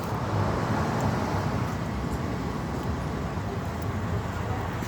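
Steady road traffic going past on a busy street, a continuous rush of passing cars.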